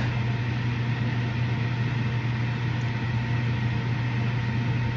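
Steady low mechanical hum with an even rush of noise over it, as from a running motor or fan; it does not change.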